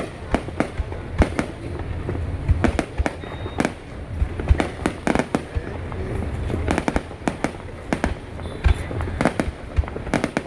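Fireworks going off: many sharp bangs and cracks in quick, irregular succession over a steady low rumble.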